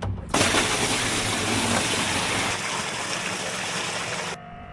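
Water rushing out under pressure from the newly powered water pump's line, a loud even gush. It starts abruptly and cuts off suddenly about four seconds later.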